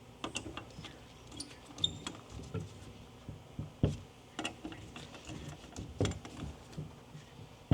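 Hand tools and metal suspension parts being handled: scattered, irregular clicks and knocks, a few with a short metallic ring.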